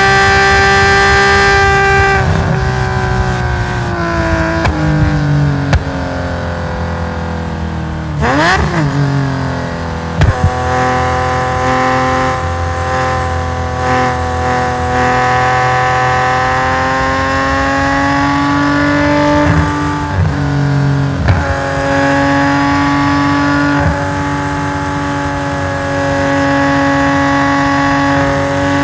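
Nissan S20 twin-cam straight-six in a race-tuned Hakosuka Skyline GT-R at racing speed. The engine runs high at first, and its pitch falls as the car slows. About eight seconds in there is a sharp rev blip. The engine then pulls hard with rising pitch, with brief drops for gear changes around twenty seconds in.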